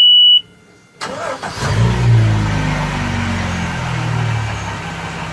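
A warning beep ends, then the Volvo Penta V6-225-A 4.3-litre V6 sterndrive engine cranks and catches within about a second. It revs up, then settles to a steady idle, a quick start.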